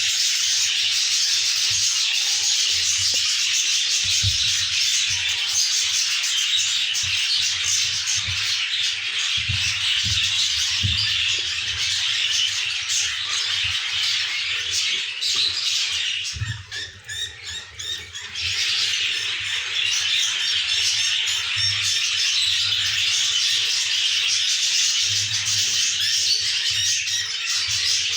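Budgerigars chattering and squawking in a dense, continuous stream of rapid calls, with a lull of about two seconds a little past the middle.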